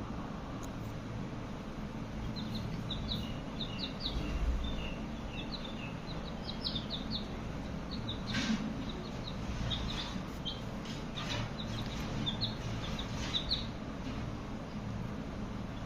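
Baby chicks peeping: short, high chirps in scattered clusters over a steady low hum, with a brief rustle just past halfway.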